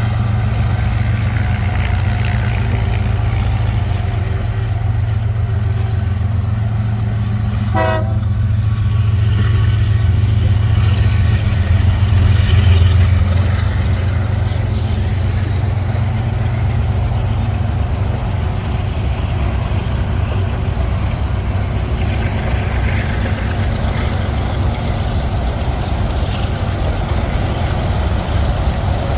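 Diesel freight locomotives and train rumbling past at slow speed, with a steady low engine drone. A short horn toot sounds about a quarter of the way in, and the rumble swells briefly near the middle.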